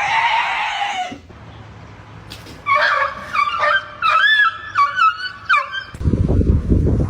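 A cat's drawn-out yowl ends about a second in. A dog then gives a series of short, high whining yelps, about six in three seconds, and a low rumbling noise comes in near the end.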